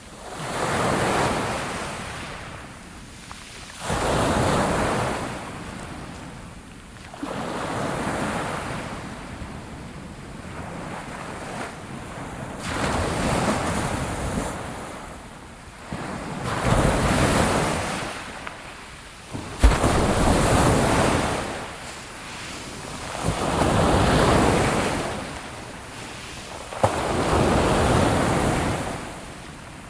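Ocean waves breaking on a shore, one surge about every three to four seconds. Each surge swells up quickly and then fades as the water washes back.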